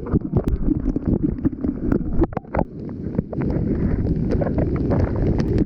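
Muffled rumble of water heard through a waterproof camera held under the water, with frequent knocks and bumps against the camera. A higher hiss comes in a little past halfway.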